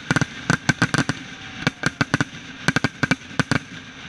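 Aerial firework shells bursting overhead in quick clusters of sharp bangs and crackles, with short pauses between the volleys and a last bang at the very end.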